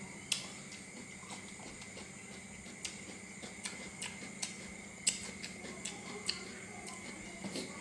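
A person chewing crispy fried meatballs close to the microphone: scattered sharp crunches and wet mouth clicks at irregular intervals, over a steady faint hum and thin high whine.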